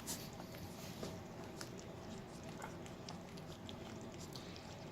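Four-week-old Australian Shepherd puppies lapping and smacking at soft food: faint, scattered wet clicks.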